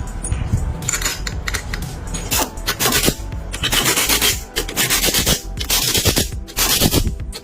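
Repeated rough hand strokes, rubbing or filing on a metal part, several in a row each lasting about half a second, over background music.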